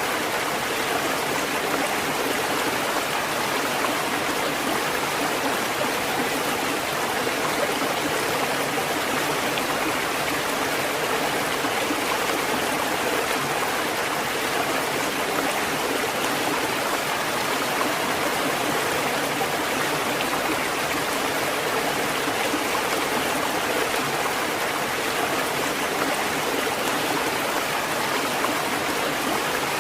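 Steady rushing water at an even level, with no rise and fall of separate breaking waves.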